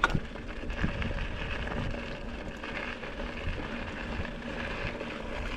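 Mountain bike rolling along a dirt trail: steady tyre and wind noise with a sharp knock at the start and a few fainter knocks.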